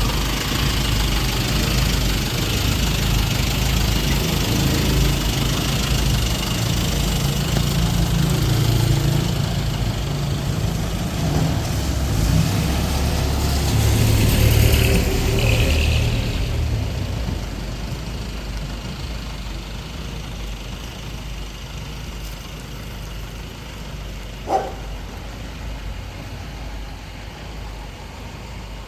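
A motor vehicle's engine running close by, a low rumble that fades away over the second half as it moves off. A single short sharp sound stands out about 24 seconds in.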